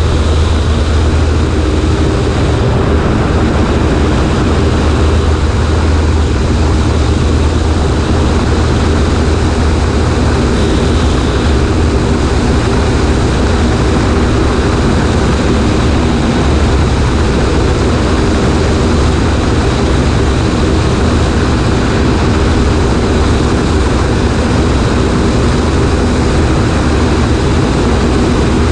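Cessna 140A's engine and propeller running steadily in flight, with a constant rush of wind noise over the microphone.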